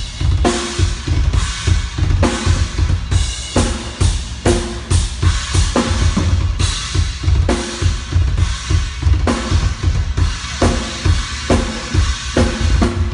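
Drum kit played in a steady, continuous groove: repeated bass drum and snare hits.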